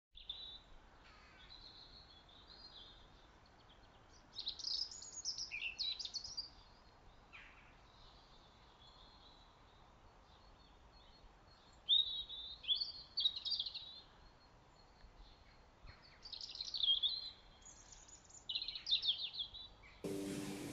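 Songbirds singing in short phrases with pauses of a few seconds between them, over faint steady background noise.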